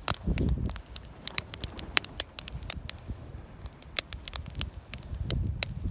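Campfire wood crackling, with sharp irregular pops and snaps throughout. Two stretches of low rumble, about half a second in and near the end.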